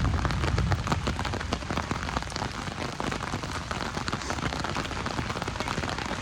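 Steady rain falling: a dense, even hiss of many small drop ticks, with a low rumble in the first second.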